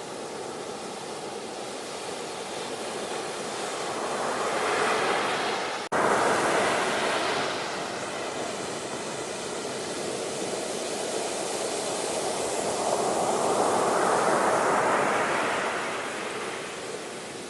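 Ocean surf washing in and out, the rush of the waves swelling and falling back twice. About six seconds in, the sound cuts out for an instant and comes straight back.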